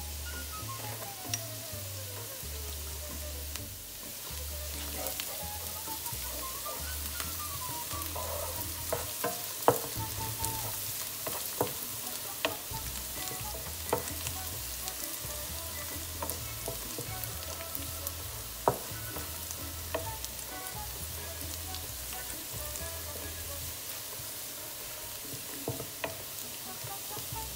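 Minced garlic sizzling in hot oil in a nonstick pan while a wooden spatula stirs it, with a steady frying hiss and scattered sharp clicks.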